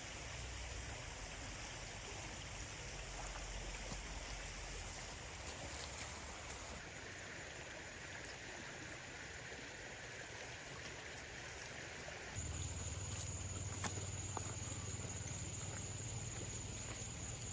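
Steady rushing noise like running water, changing abruptly twice, about seven and twelve seconds in. After the second change it gets louder, with a low hum and a thin steady high whine.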